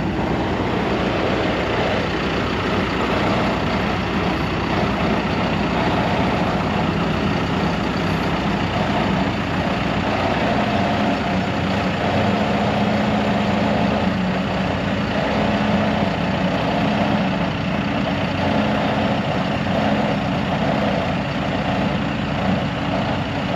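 Heavy tree-removal equipment engine running steadily at a constant speed, with no revving or load changes.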